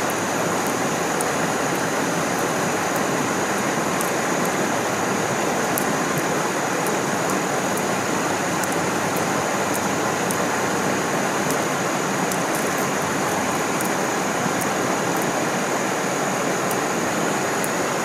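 Steady rush of stream water pouring below a waterfall, with a thin steady high whine and scattered faint sharp ticks over it.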